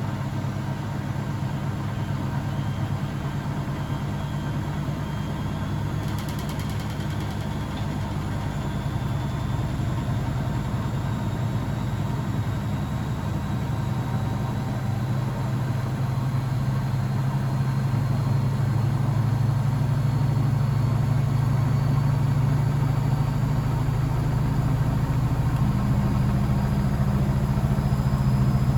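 Blomberg WAF 7442 SL washing machine running continuously, its motor and drum humming while a thin whine rises slowly in pitch and the sound grows steadily louder as the drum speeds up.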